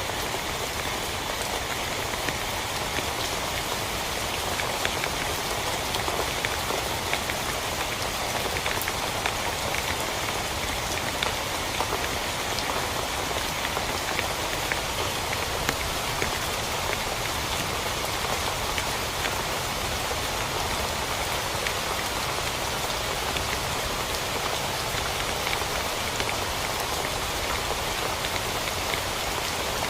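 Steady heavy rain falling on a tent, with a dense hiss and many individual drop hits ticking through it.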